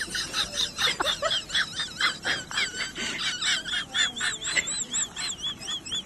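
Small birds chirping in rapid, high, short notes, with a repeating warbling trill joining about four seconds in.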